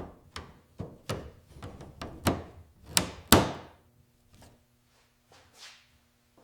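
A quick, irregular run of sharp knocks and thunks, the loudest about three seconds in, followed by a few fainter knocks over a faint steady hum.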